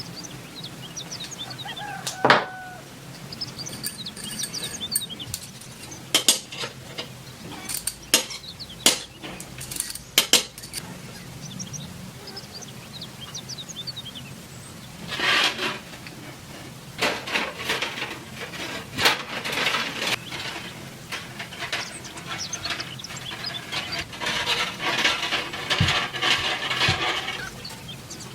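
Metal parts clinking and knocking as they are handled, with a few sharp knocks and some longer scraping stretches.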